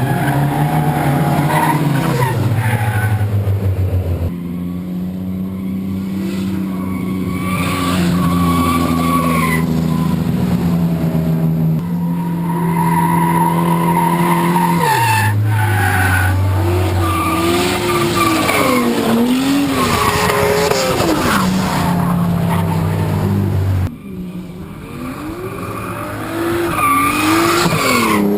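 Cars drifting: engines held at high revs while the tyres squeal with a wavering pitch. The engine note changes abruptly a few times.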